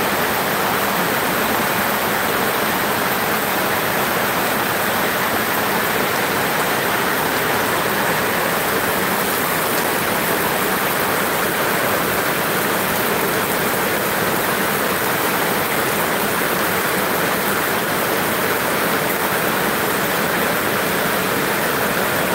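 Heavy tropical downpour: a steady, even rush of rain falling and streaming off the roof edges onto wet concrete.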